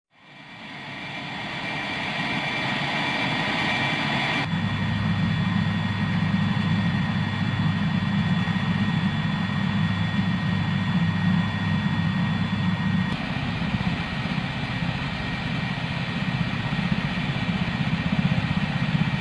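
AH-64 Apache helicopter running, a steady engine and rotor drone. It fades in at the start, and its tone shifts abruptly about four and a half seconds in and again about thirteen seconds in.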